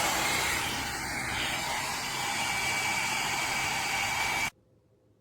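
Hot air brush (blowout hair dryer brush) running: a steady rush of blown air with a high whine from its fan motor, stopping abruptly about four and a half seconds in.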